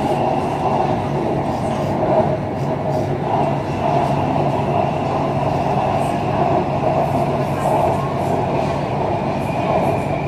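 BTS Skytrain electric train running along the elevated track, heard inside the car: a steady rumble of running noise with a low hum and a faint high whine.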